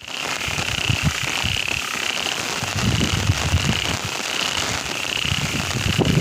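Steady rain falling, with a high-pitched call that pulses about once every 0.7 seconds over it and low rumbling underneath.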